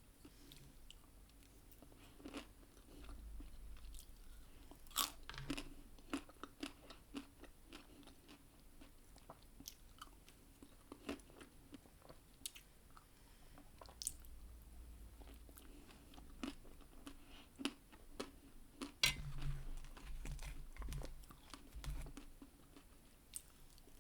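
Close-miked eating of ice cream: biting and chewing with many sharp, crisp crunches and clicks, the loudest crunch about nineteen seconds in.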